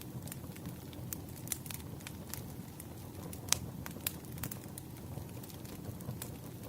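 Campfire crackling: burning wood gives off irregular sharp pops and snaps over a low steady rumble of flame, with one louder pop about three and a half seconds in.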